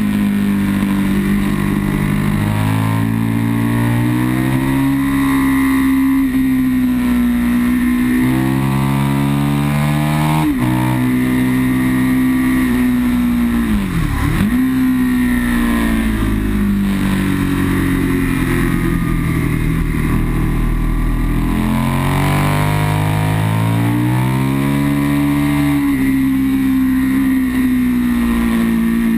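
Aprilia sportbike engine at full throttle on track, heard from on board: the note climbs and drops back again and again as it pulls through the gears, with a sharp dip and recovery about halfway, over a steady rush of wind.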